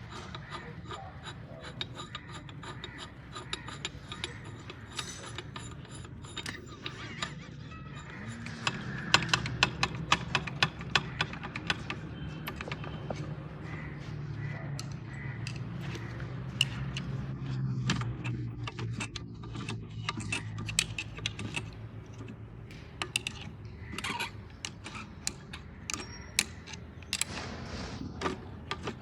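Metal parts and hand tools clicking and tapping during hand work on a tractor hydraulic lift cylinder, densest a few seconds in, over a low steady hum through the middle.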